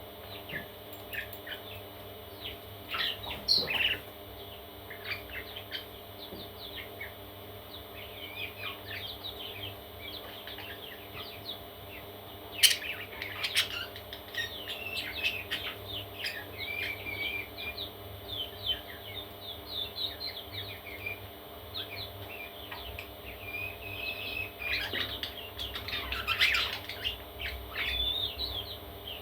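Parrot chicks chirping in many short, high calls, some in quick runs, over a steady low hum, with one sharp click about twelve seconds in.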